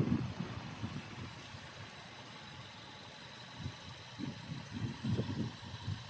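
VW Sharan's 1.4 TSI four-cylinder turbo petrol engine idling faintly and steadily, with irregular low rumbles in the second half.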